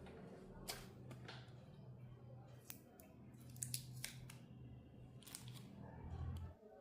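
Scattered small clicks and short snips of handwork on small electronic and plastic parts, over a faint low hum.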